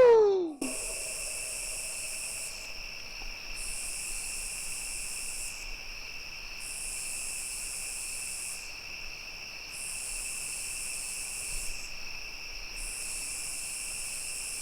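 A chorus of night insects trilling steadily, with a higher buzzing layer that drops out and comes back about every three seconds. In the first half second the tail of a long, siren-like wailing call, a Bigfoot vocalization imitation, falls away in pitch.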